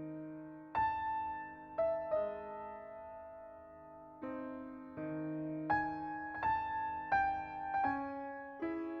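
Slow piano music: chords and single notes struck and left to ring, about a dozen note onsets, with no drone or wind sound audible.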